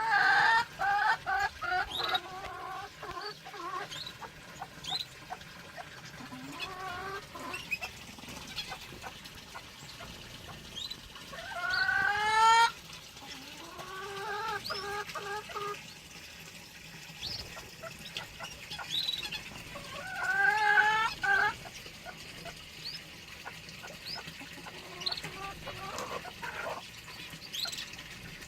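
Mixed aviary birds calling. A larger bird gives repeated calls, with two loud runs rising in pitch about 12 and 20 seconds in, over scattered short high chirps from small cage birds.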